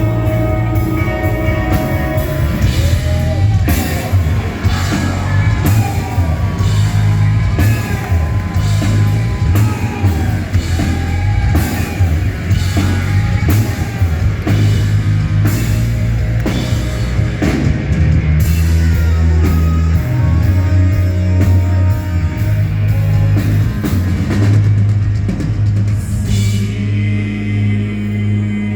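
Rock band playing live, an instrumental passage with drum kit, a steady bass line and a lead melody that bends up and down in pitch.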